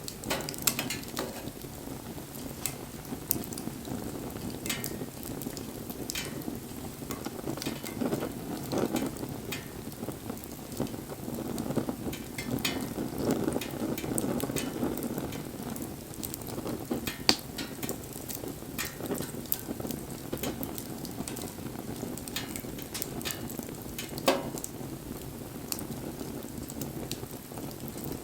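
Wood bonfire burning: a steady hiss with frequent crackles and sharp pops, the loudest pops about 17 and 24 seconds in.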